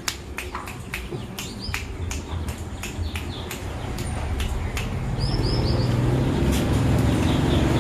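Birds chirping in short high calls among sharp clicks, while a motor vehicle engine comes up underneath from about halfway, growing steadily louder until it is the loudest sound by the end.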